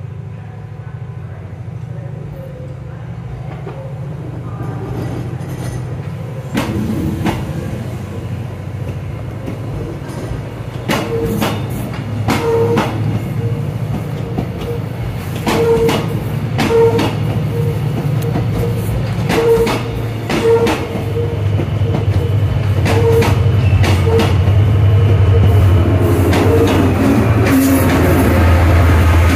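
A train running close by: a steady low drone that grows louder, with evenly spaced clicks from the wheels crossing rail joints starting about a quarter of the way in.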